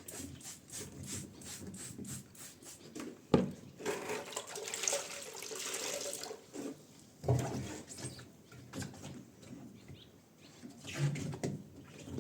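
Water running and splashing during cleaning, with a sharp knock about three seconds in and a few dull thumps later.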